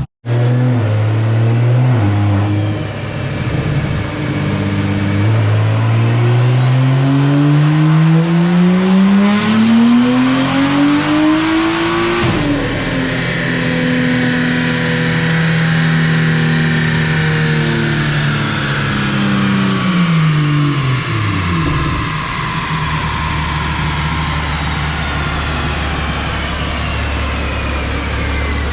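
BMW B58 turbocharged inline-six with a big single turbo making a wide-open-throttle pull on a chassis dyno. The revs climb steadily for about seven seconds and then drop off, and a high whine winds down slowly as it coasts down.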